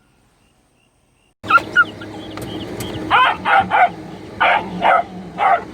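Near silence for about a second and a half, then hunting dogs (beagle pups) barking in a run of short, loud barks over a steady background hum.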